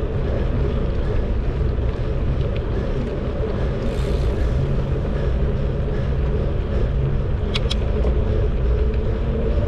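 Steady low rumble of wind on the microphone and tyre noise from a bicycle riding along a paved trail. Two sharp clicks come about seven and a half seconds in.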